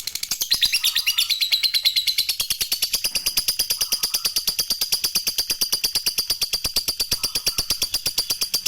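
Lovebird singing a long 'ngekek': a fast, unbroken chatter of short, high notes, about a dozen a second, running on without a pause.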